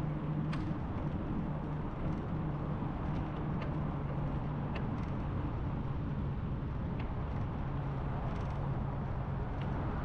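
Steady rushing noise of a bicycle ride, with a low steady hum underneath and a few faint scattered clicks.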